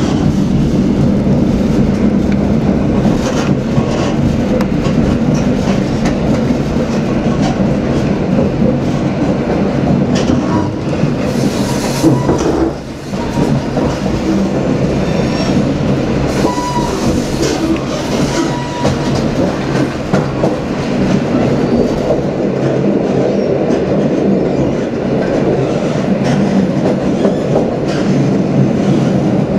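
Passenger train running, heard from a coach window: a steady rumble of wheels on rail with irregular clacks as the wheels cross rail joints and points.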